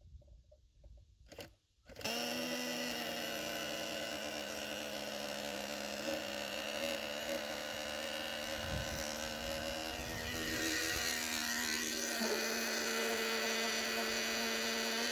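Small nitro glow engine of an RC jet ski running at high revs with a steady buzzing whine, starting about two seconds in and getting a little louder from about ten seconds in.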